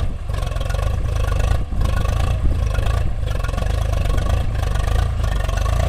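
Heavy diesel engine running steadily under load, a loud low rumble with a fast, even firing pulse.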